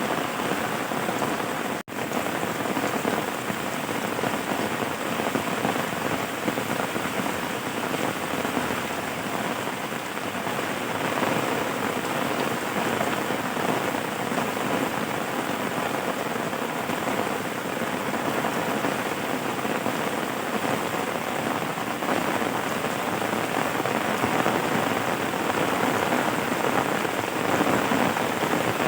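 Steady rain falling on a surface, an even dense hiss, with one momentary dropout about two seconds in.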